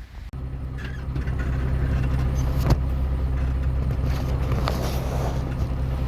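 Tractor-trailer's diesel engine idling steadily, with a sharp click partway through.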